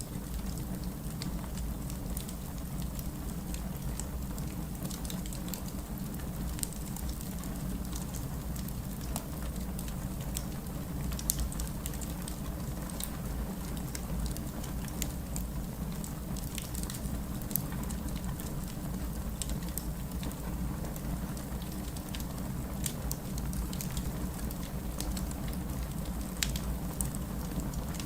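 Steady rain mixed with a wood fire crackling, scattered sharp pops and snaps over a constant low rumble.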